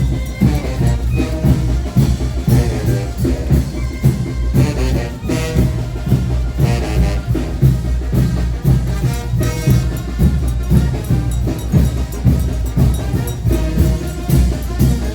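Brass band with trumpets over drums playing a son de chinelo, the Morelos dance tune, with a steady beat.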